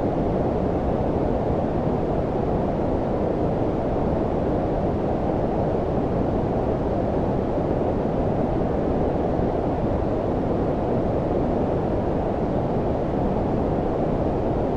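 Steady low-frequency filtered noise (brown-noise-like), a warm rumbling hiss with most energy below about 1 kHz and little high treble, unchanging throughout.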